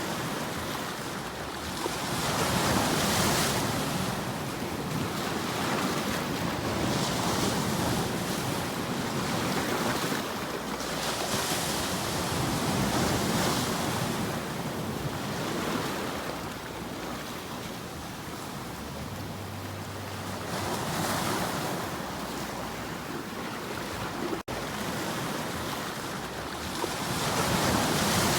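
Ocean waves washing onto a shore, the surf swelling and fading every few seconds, with a split-second break in the sound near the end.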